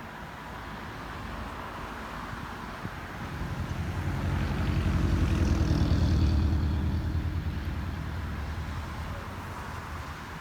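A motor vehicle driving past: its engine note swells over a few seconds, is loudest about halfway through, then fades away.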